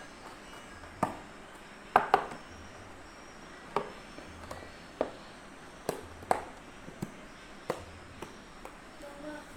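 A series of sharp, short knocks, about a dozen at irregular spacing of roughly one a second, the loudest a quick pair about two seconds in.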